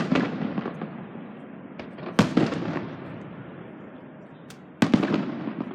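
Aerial fireworks bursting: sharp bangs at the start, about two seconds in and near the end, each followed by a long crackling tail, with smaller pops between.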